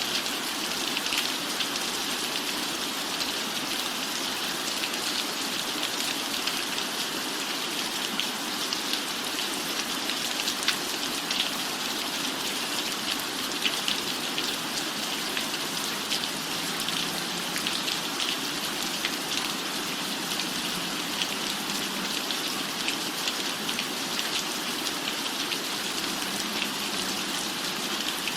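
Steady rain falling on a roof, an even hiss with many small scattered drop ticks.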